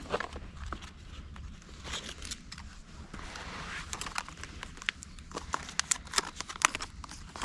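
Campfire wood burning with irregular sharp crackles and pops, coming thicker in the second half, over a low steady rumble.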